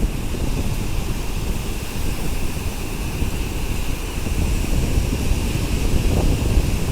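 Wind buffeting the microphone in a steady low rumble, over the hiss of surf on the beach.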